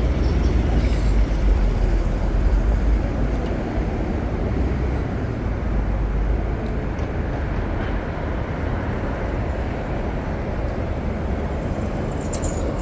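City street traffic: a steady rumble of passing vehicles, heaviest in the first few seconds and easing a little after.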